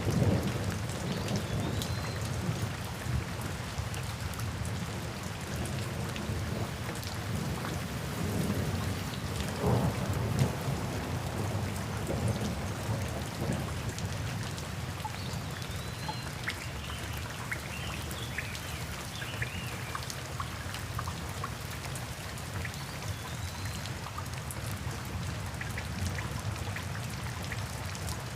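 Steady rain with low rolling thunder. A roll of thunder is fading just as it begins, and another swells about ten seconds in.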